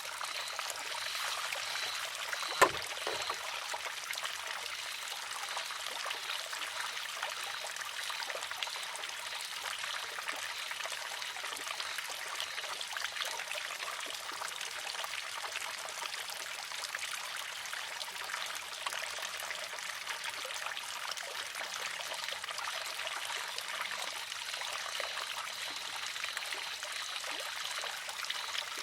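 Water trickling and splashing steadily through a wooden shishi-odoshi. Once, a little over two and a half seconds in, comes a single sharp clack as the filled arm tips, empties and strikes the rock, with a short low ring after it.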